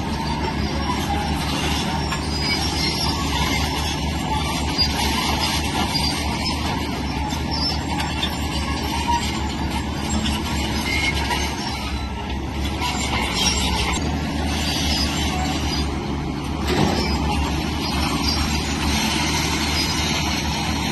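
Heavy earthmoving machinery running steadily: a Shantui crawler bulldozer's diesel engine working under load, with a brief louder knock about 17 seconds in.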